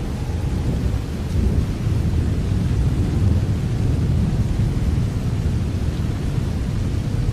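Steady rain: an even, continuous hiss of falling drops with a strong low rumble underneath.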